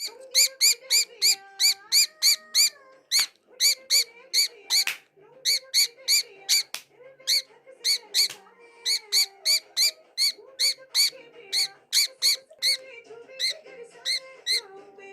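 A pet bird chirping loudly and repeatedly, about three to four sharp chirps a second in runs with short pauses, over background music with a stepping melody.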